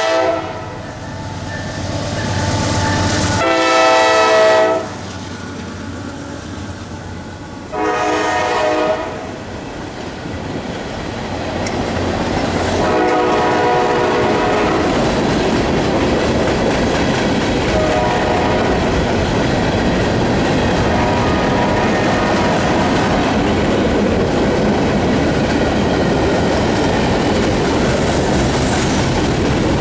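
Diesel locomotive horn sounding several blasts: a long one about four seconds in, a shorter one around eight seconds and a fainter one around thirteen seconds. The train then rolls past with a steady rumble and the clickety-clack of its wheels on the rail joints.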